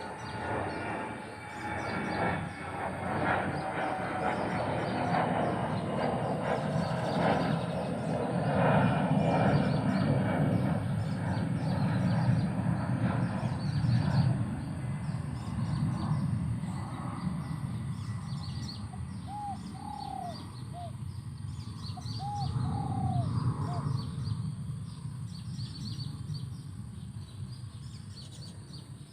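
Birds calling over a steady low rumble, with many short chirps throughout. About two-thirds of the way in come a few short, soft coos of a spotted dove.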